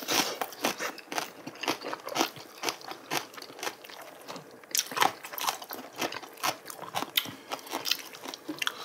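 Close-miked chewing and biting, a dense run of short sharp mouth clicks and smacks, as braised oxtail is eaten off the bone, with a brief lull about four seconds in.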